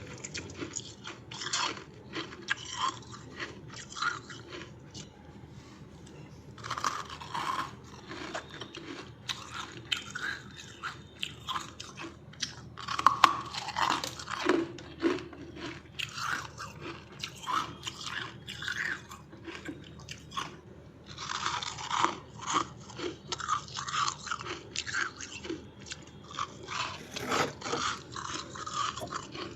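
Close-miked crunching and chewing of freezer frost, with a steady run of irregular crisp crackles and louder bites every few seconds.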